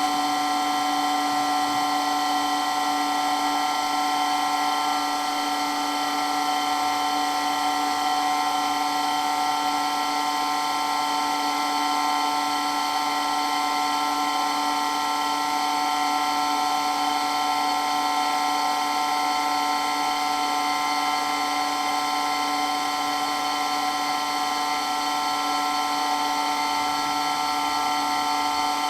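Water pump for water blasting running steadily with a constant whine of several fixed tones, the pitch not changing.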